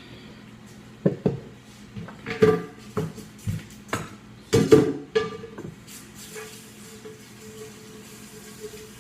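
Cookware clattering as a pot is handled: a run of sharp clanks and knocks of metal pots and utensils over about five seconds. After that it goes quieter, leaving a faint steady hum.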